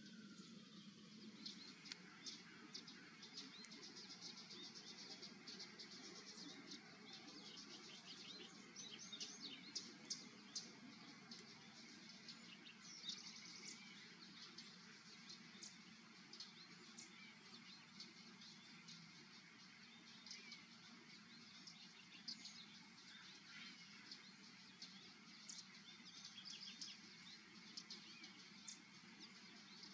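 Faint, scattered chirps of small birds, with busier runs about a third of the way in, over a low steady rumble.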